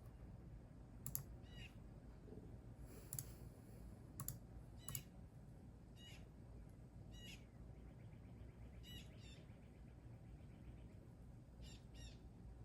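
Birds singing faintly, a series of short high chirps repeated every second or so, with a soft trill about two-thirds of the way through, over a quiet low background hum.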